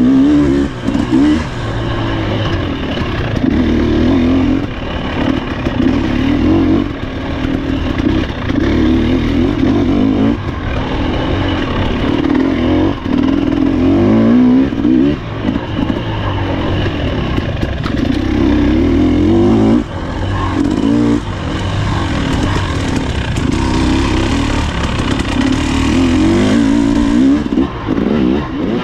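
Husqvarna TE300 two-stroke dirt bike engine revving hard and dropping back again and again as it is ridden over rough ground, with the pitch climbing and falling every couple of seconds. Scattered knocks and clatter are heard from the bike over the terrain.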